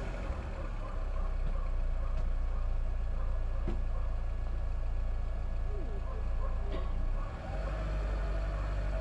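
Car engine idling with a steady low rumble. About seven seconds in it dips briefly, then runs a little fuller.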